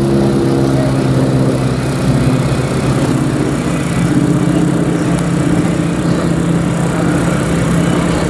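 An engine running steadily at a low, even pitch, which shifts slightly about four seconds in.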